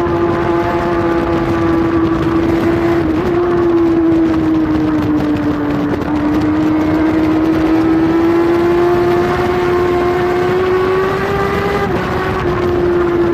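Kawasaki superbike's inline-four engine running hard at high revs, heard from a camera mounted on the bike. Its pitch sags slowly through the middle and then climbs again, with brief breaks about three seconds in and near the end.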